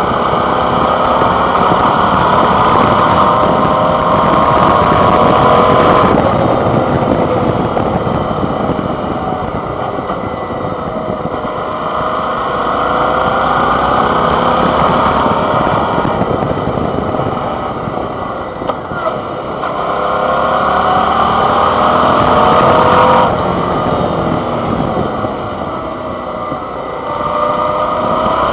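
Suzuki V-Strom 650 XT's 645 cc V-twin engine under way, its revs climbing and then dropping sharply at gear changes, about six seconds in and again near the end, over rushing wind noise.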